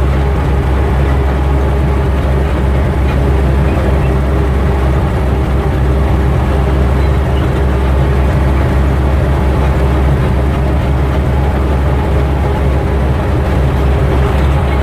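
Engine of a 1928 Lombard gas dump truck running steadily with a deep, even hum.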